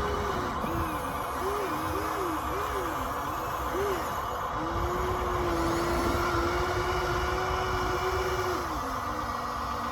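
Electric motors of RC model construction machines whining, the pitch rising and falling in quick swoops several times, then holding steady for a few seconds before dropping lower near the end.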